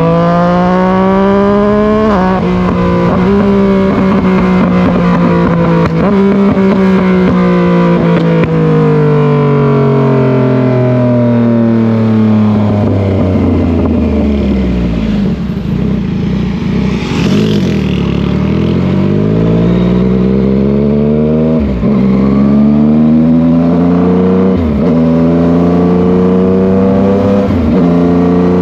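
Yamaha MT-09's three-cylinder engine pulling hard through the gears, its pitch climbing and dropping at two quick upshifts. It then winds down as the bike slows, and pulls up through three more shifts near the end.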